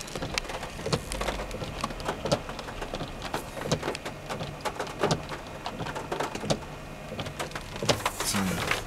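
Heavy rain falling, with many sharp, irregular drop impacts over a steady hiss.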